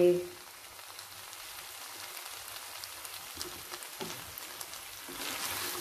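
Stir-fried noodle, vegetable and chicken stuffing sizzling gently in a wok on the gas: a soft, steady frying hiss with faint crackles, growing louder near the end.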